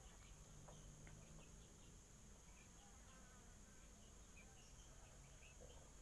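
Near silence with faint outdoor ambience: a steady high insect drone, a low hum, and scattered short, faint chirps.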